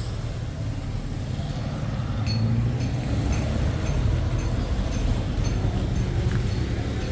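Steady low vehicle rumble with a few faint light ticks over it.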